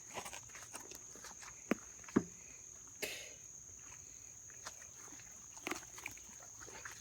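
Shovelling and stepping in wet, sticky mud: scattered squelches and knocks, the loudest a little after two seconds, and a short scrape about three seconds in. A steady high insect drone runs underneath.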